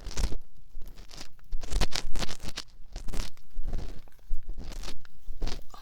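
Ear pick scraping inside the ear of a binaural dummy-head microphone: close, crunchy, irregular scratching strokes.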